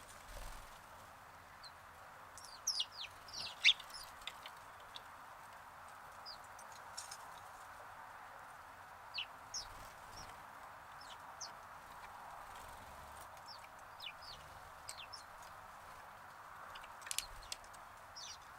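Sparrows chirping: scattered short, high chirps, several in quick succession about three seconds in and again near the end, over a steady background hiss.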